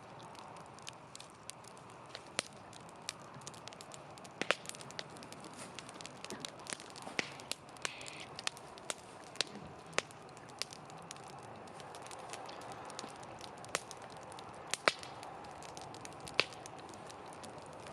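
Campfire crackling, with irregular sharp pops and snaps over a soft steady hiss of flame. The loudest pops come about four and a half seconds in and again near fifteen seconds.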